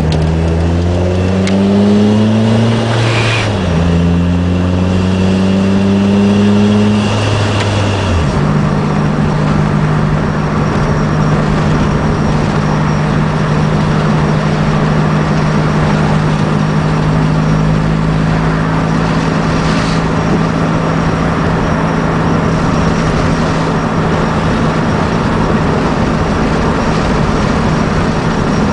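Supercharged Nissan Sentra SE-R Spec V's 2.5-litre four-cylinder running through a Nismo exhaust while driving: the engine note climbs under acceleration, drops at a shift about three seconds in, and climbs again. At about eight seconds it changes to a steady drone held at one pitch as the car cruises.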